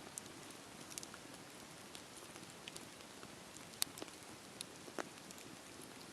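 Campfire burning: a soft steady rush of flame with irregular sharp crackles and pops from the burning wood, a few louder snaps around the middle.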